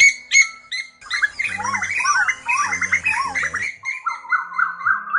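Asian koels calling in a flock-call lure recording, male and female calls overlapping. Dense chattering bird calls with repeated rising-and-falling notes, then from about four seconds in a fast run of short rising notes.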